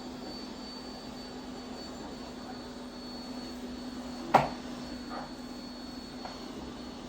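Steady mechanical hum with a constant low drone and a faint high whine, with a single sharp knock about four seconds in.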